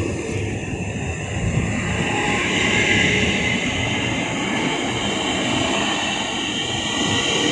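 Train running past: a steady rumble with a high hiss that grows louder about two seconds in.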